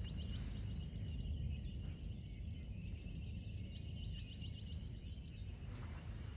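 Hawaiian honeycreepers singing in quick, high, repeated chirps over a steady low rumble.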